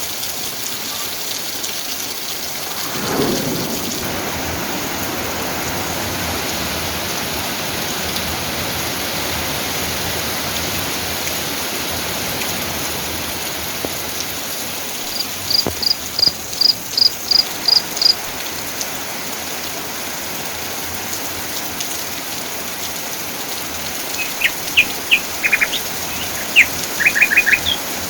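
Steady rain falling, with a brief low rumble about three seconds in. Past the middle, a bird repeats a short high note about eight times in an even run, and near the end birds chirp in quick bursts.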